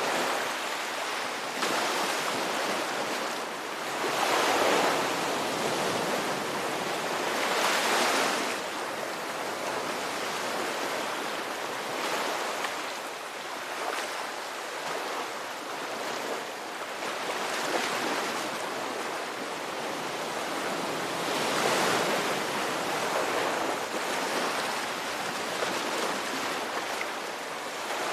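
Ocean surf: waves breaking and washing in a continuous hiss that swells into louder surges every few seconds, strongest about four and eight seconds in and again past twenty seconds.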